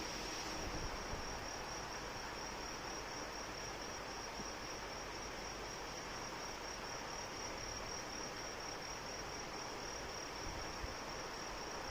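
Steady rain with insects trilling in one continuous, high-pitched, rapidly pulsing chirp.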